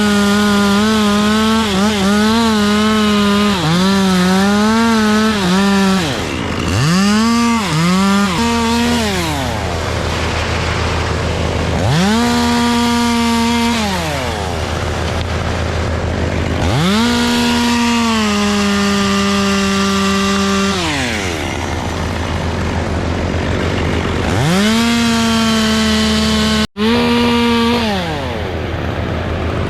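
Chainsaw revved to full throttle in about five bursts, each held for a few seconds and then dropping back to idle, the pitch wavering during the early bursts as the chain is loaded in the wood; a steady low engine hum runs underneath, and the sound cuts out for an instant near the end.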